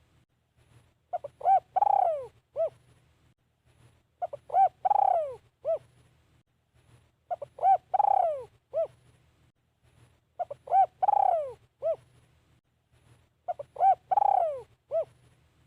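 Decoy spotted dove cooing its phrase about every three seconds, five times. Each phrase is a couple of short coos, a longer falling coo and a short final coo.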